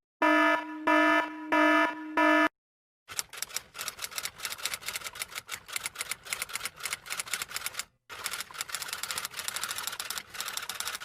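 Four short electronic beeps, then, after a brief silence, rapid typing: keys clicking several times a second, with a short break about eight seconds in.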